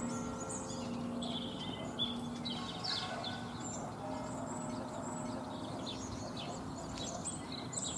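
Small birds chirping and twittering repeatedly over a steady outdoor background hum.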